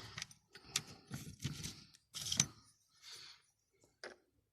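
Small metal drill bits clicking and rattling as they are handled and picked out of a drill-bit set, in a string of short irregular clinks and rustles.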